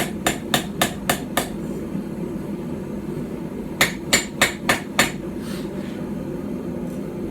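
Small hand-forged hammer striking a knife blank on a stump anvil: a quick run of light blows, about four a second, then a pause and a second run of about five. The blows are planishing out hammer marks and straightening the blade. A steady low hum runs underneath.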